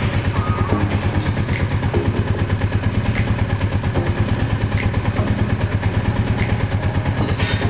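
Motorcycle engine idling steadily with a fast, even pulse, and a faint click about every second and a half.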